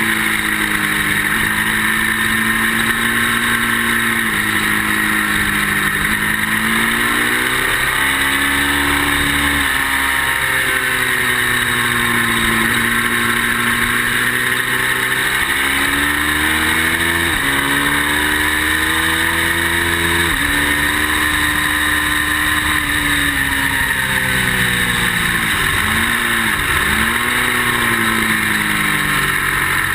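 Ducati V-twin motorcycle engine at speed on track, its pitch climbing and then dropping back at each gear change, with a sharp dip and recovery near the end, over a steady rush of wind. The owner says the bike is not running great.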